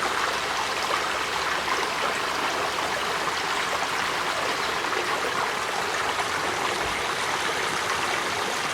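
Spring water flowing steadily out of the ground in a small stream, an even, unbroken rush of running water.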